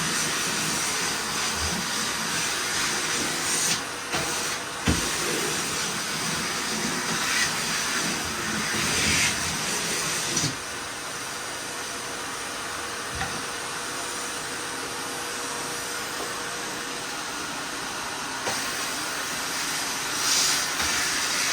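Miele vacuum cleaner running steadily with a constant suction hiss that swells briefly now and then as the nozzle works. A few knocks of the nozzle fall in the first five seconds.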